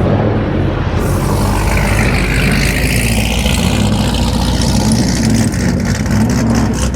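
Car engine running loudly and steadily, with a whine that rises and falls about two to four seconds in.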